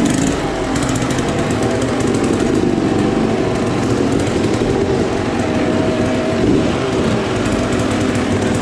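Small motorcycle engine, likely a dirt bike, running steadily throughout with a rapid, rattly firing note.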